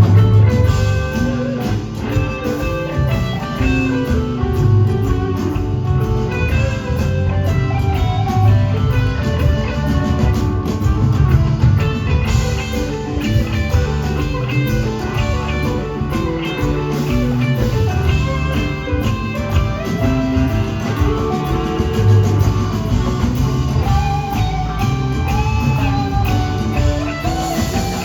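Live blues-rock band jamming: electric guitar playing melodic lead lines over bass guitar and drum kit.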